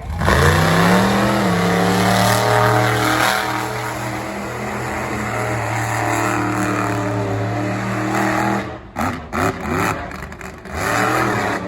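Big competition truck engine revving up over about a second and a half, then held at high revs for several seconds. About nine seconds in it drops off into short, uneven blips of throttle.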